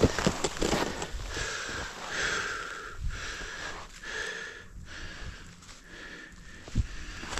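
A person breathing hard in repeated hissing breaths, with a sharp knock at the start and another near the end.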